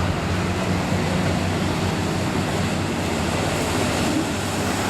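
Street diesel pickup truck's engine running steadily under load, with a constant wash of noise over it.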